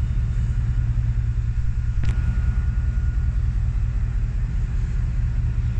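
Class 68 diesel-electric locomotive's engine running with a steady deep rumble, with a single sharp click about two seconds in.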